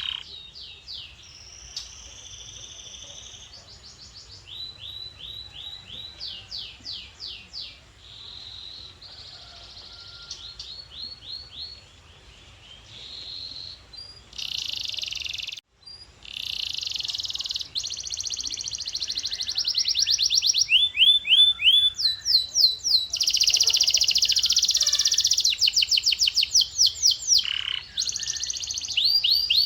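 Male domestic canary singing: a continuous string of fast trills, each made of one high note repeated many times and changing to a new trill every second or two. The song is quieter in the first half, breaks off briefly about halfway through, then comes back louder.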